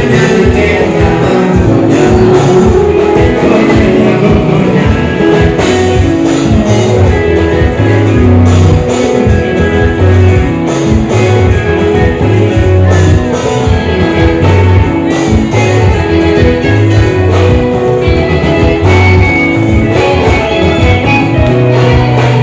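Live band music played loud, with a steady beat, a prominent bass line and plucked guitar, and a singing voice.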